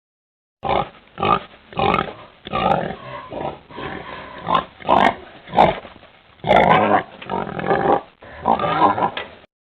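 Domestic pig grunting: a string of short, uneven calls with a few longer ones in the second half, cutting off abruptly just before the end.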